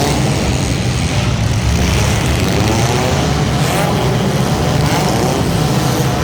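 Engines of front-wheel-drive hobo-class race cars running on track, a loud, steady, unbroken drone.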